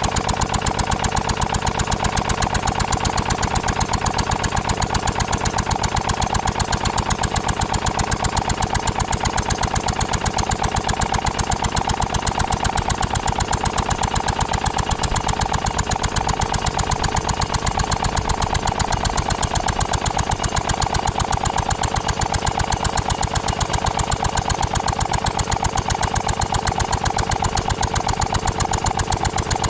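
Ruston & Hornsby 2PS portable petrol-engined air compressor running steadily with a rapid, even beat.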